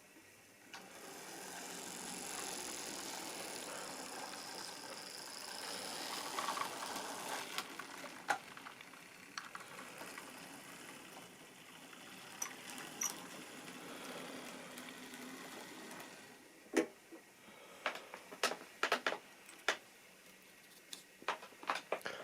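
Model railway train running along the track: a small electric motor and wheels clattering on the rails, starting about a second in and dying away around sixteen seconds. A run of sharp clicks and knocks follows near the end.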